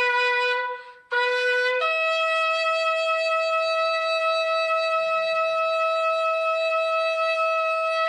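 Shofar blasts: one held note ends, and after a brief break a new blast starts, leaps up in pitch under a second in and is held steady for about six seconds.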